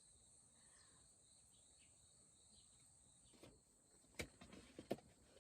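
Faint, steady high-pitched chirring of insects such as crickets. A few sharp clicks or knocks come in the last two seconds.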